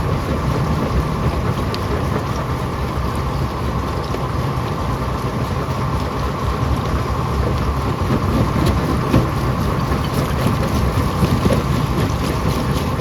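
Rock crusher running and breaking stone: a loud, steady heavy rumble with a constant mechanical drone, and rock cracking and clattering that grows busier in the second half.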